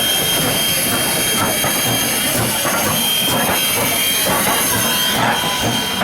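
A train running along the track: a steady, loud rumble of wheels on rails with a constant hiss.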